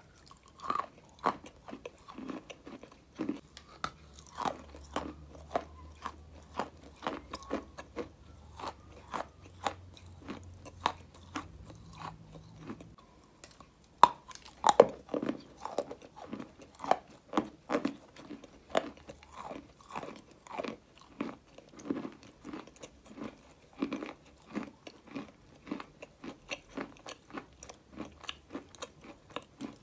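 Crunching bites into a block of white eating clay, once at the start and again about halfway through, each followed by steady, rhythmic chewing of the crumbly clay, close to the mouth.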